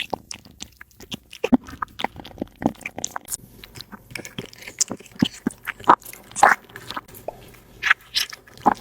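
A cat chewing food close to the microphone: irregular crunching bites and clicks, a few a second.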